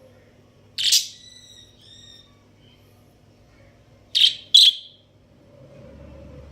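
Budgerigars giving short, sharp chirps: one call about a second in followed by a softer one, then two quick calls in a row about four seconds in.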